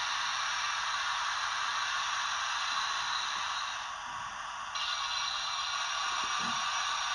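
Recorded steam safety-valve blow-off played by a Hornby TTS sound decoder through a model locomotive's small speaker: a steady hiss. It thins about four seconds in, then comes back brighter.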